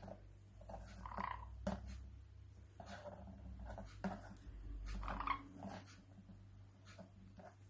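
Parrot making a few short calls and noises, one every second or two, with a couple of sharp clicks between them.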